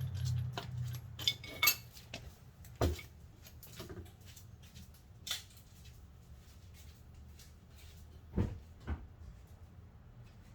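Work noises around the car: a scatter of light metallic clicks and clatter in the first couple of seconds, single knocks near 3 and 5 seconds, and two dull thumps close together near the end, over a low steady hum.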